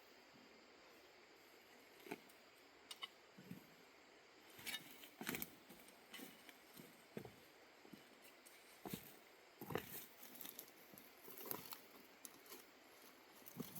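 Faint, irregular light clicks and rustles, one or two a second and more frequent from about four seconds in, over a quiet hiss.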